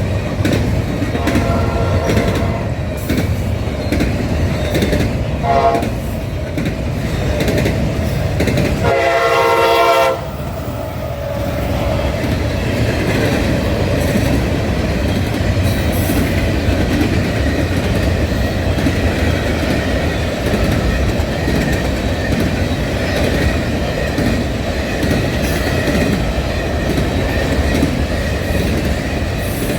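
Train passing on the rails, its wheels making a steady loud rumble. The locomotive horn sounds three times: a blast about a second in, a brief toot near six seconds, and a louder blast around nine to ten seconds.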